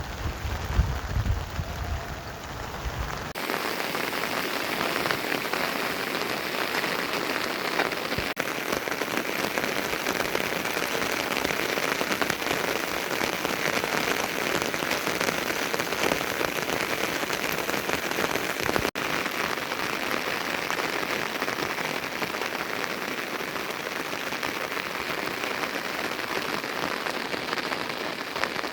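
Steady rain falling, a dense even hiss. For the first three seconds or so a low rumble runs underneath, then cuts off suddenly.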